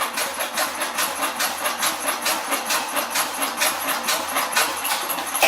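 Old diesel engine running with an even, rhythmic clatter of firing beats, about five a second; the sound cuts off suddenly at the end.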